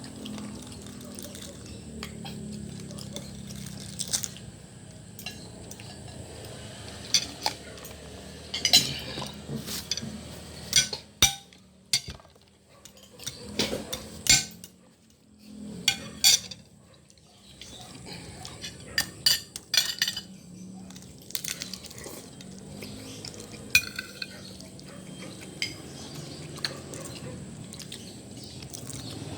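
Spoon and fork clinking and scraping against a plate or bowl while eating, in scattered sharp clinks.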